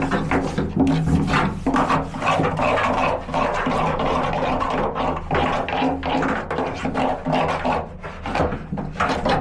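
Repeated scraping strokes as crusted grime and buildup are worked off a washing machine spider, over a steady low hum.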